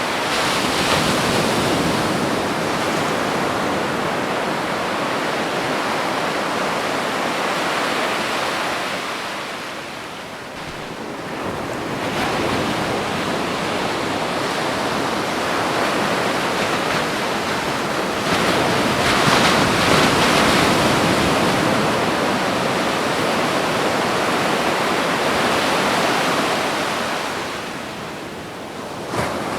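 Ocean surf washing onto a beach: a continuous rush of breaking water that eases off about ten seconds in and again near the end, swelling back after each lull.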